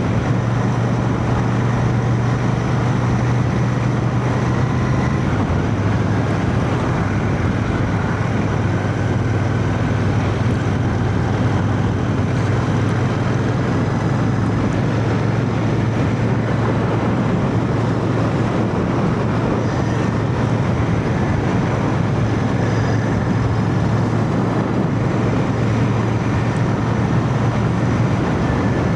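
Royal Enfield Shotgun 650's parallel-twin engine running steadily at road speed under heavy wind rush, picked up by a mic inside a full-face helmet with the visor cracked open. The engine note drops slightly about five seconds in.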